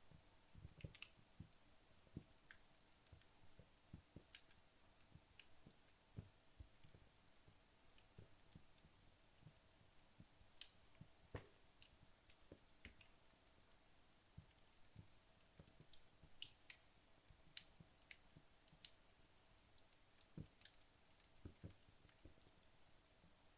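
Wood logs burning low in a fireplace near the end of a burn, giving faint, sparse crackles: scattered sharp pops and ticks, several close together about two-thirds of the way through, over a faint steady hum.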